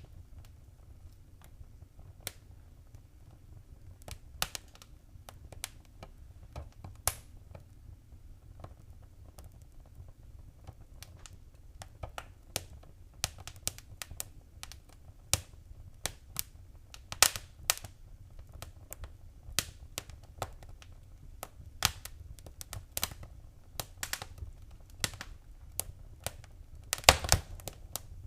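Wood fire crackling: irregular sharp pops and snaps over a low steady rumble, sparse at first, growing busier about halfway, with a quick flurry of pops near the end.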